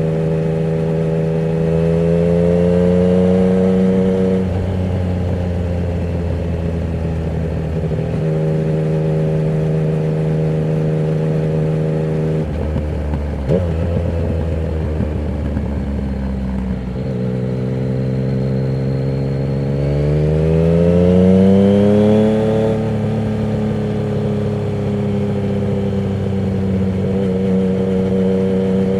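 Yamaha MT-09's three-cylinder engine through a Termignoni exhaust with the dB killer removed, ridden on the road. The engine note holds steady for stretches, climbs as the throttle opens, and drops in sudden steps, with one longer climb about two-thirds of the way through.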